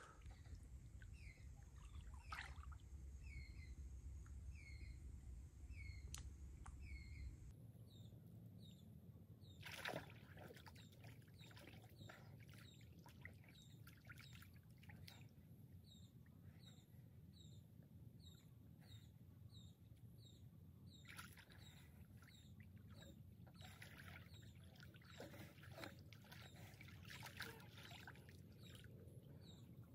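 Quiet lakeshore ambience: birds chirping over and over, short chirps about a second apart, with faint water sloshing and lapping.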